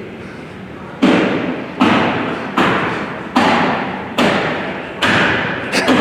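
Heavy hammer blows, about seven of them starting a second in, roughly one every 0.8 seconds, each echoing in a large hall.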